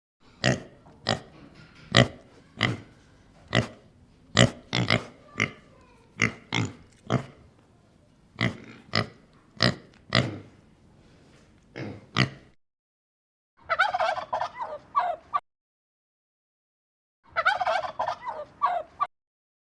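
Fowl calling: a long run of short, sharp calls, then two bursts of rapid warbling calls with silent pauses between them.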